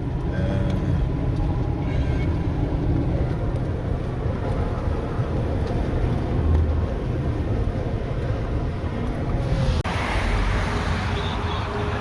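Car driving at highway speed: steady engine and tyre road noise. About ten seconds in, the noise turns abruptly to a brighter hiss.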